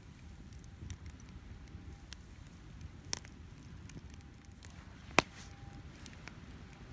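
Cedar and oak firewood crackling in a campfire, with scattered small pops and two sharp snaps, one about three seconds in and a louder one about five seconds in. Underneath is a low, steady rumble of wind and surf.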